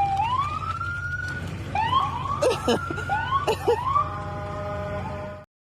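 Police car siren: a slow rising wail, then a run of quick rising yelps, then a steady tone, over a low steady hum; it cuts off suddenly about five and a half seconds in.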